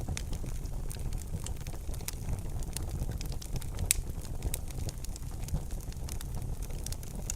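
Wood fire crackling in a fireplace: scattered sharp pops and snaps over a low steady rumble, with one louder pop about four seconds in.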